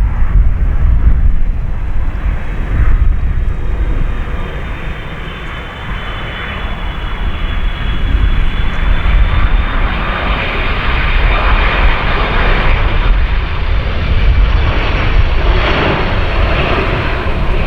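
Jet airliner's engines at high power, a loud deep rumble with a thin high whine over it, as the aircraft departs.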